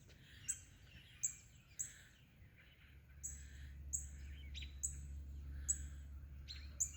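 Birds calling in trees, a short high chirp repeated about every 0.7 seconds. A low steady rumble comes in about three seconds in.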